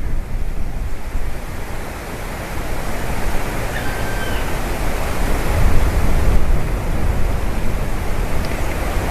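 Steady wind noise buffeting the microphone: a deep rushing hiss that swells and eases in gusts.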